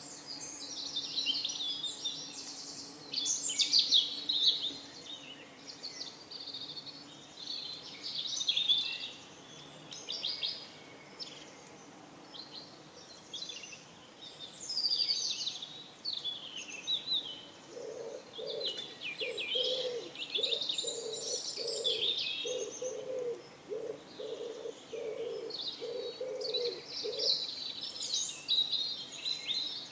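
Small birds chirping and trilling throughout. Over the second half a pigeon coos, a long run of low, evenly spaced coos.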